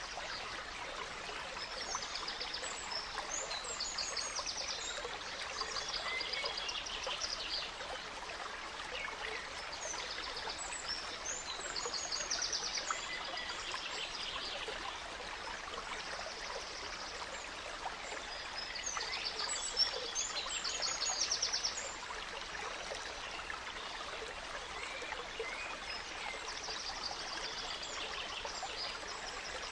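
A small stream running and trickling steadily, with songbirds singing over it in repeated bursts of quick, high trills and chirps every few seconds.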